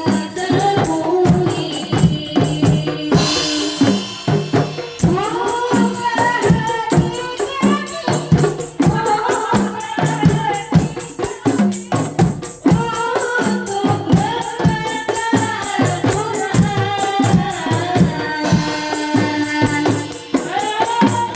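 Music: a voice singing long, bending, drawn-out notes over a fast, steady percussion beat.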